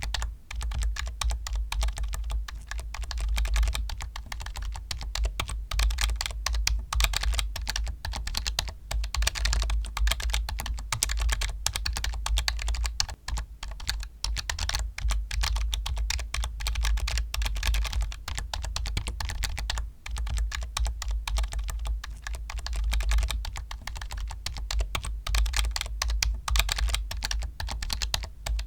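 Continuous fast typing on a computer keyboard, a dense stream of key clicks.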